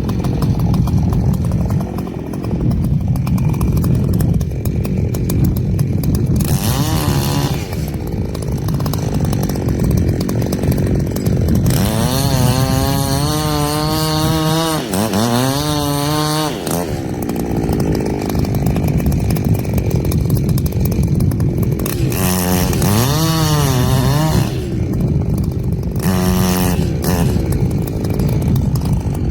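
Echo CS-7310 two-stroke chainsaw running hard, cutting wood. Its engine note sags and climbs back up several times, in the middle and again near the end.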